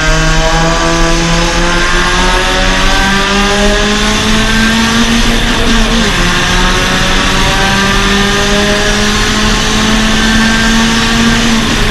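Suzuki Swift Sport race car's four-cylinder engine under hard acceleration, its pitch climbing steadily. The pitch dips briefly about six seconds in and again near the end, then keeps climbing.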